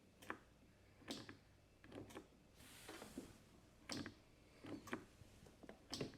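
A few faint, irregular clicks from a lawn tractor's solenoid as the key is tried, with the starter not cranking the engine: the tractor will not turn over.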